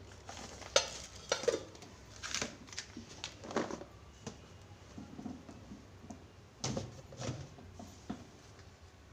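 Kitchen food containers and their lids being handled and set down: a series of light knocks and clicks at irregular intervals.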